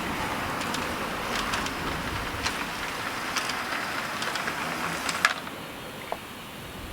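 G gauge model train running on garden railway track: a steady rolling hiss with scattered clicks of wheels over rail joints, the loudest click about five seconds in, after which the running sound fades.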